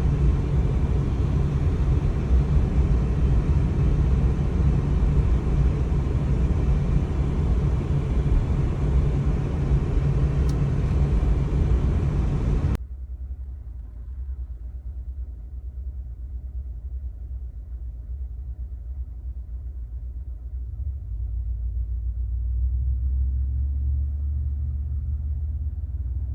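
Car driving on a snow-covered road: steady road noise with a low rumble. About halfway through it cuts abruptly to a quieter, duller rumble, which grows louder near the end.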